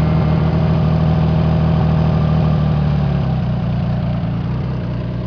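Honda CBX 1000's six-cylinder engine with aftermarket trumpet exhausts idling steadily, its idle speed being set with the idle adjuster; the note eases off slightly about three seconds in. It runs okay but is due for a service after standing for a couple of years.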